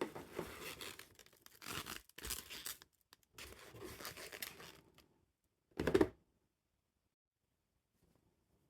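Camera box packaging being torn and crinkled by hand, in two stretches of rustling with a short, louder rustle about six seconds in.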